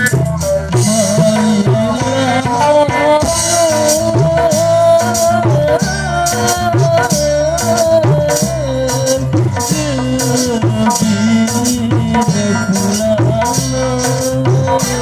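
Kecimol band music: a wavering melody line over busy, fast drum and percussion beats.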